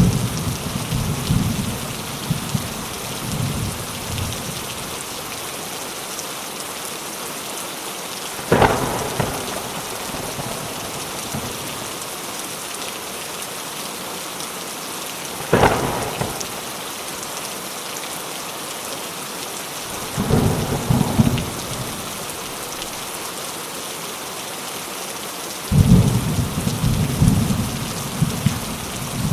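Steady rain with repeated thunder. A low rumble rolls at the start, sharp claps come about eight and fifteen seconds in, a rumble follows about twenty seconds in, and a long roll begins near the end.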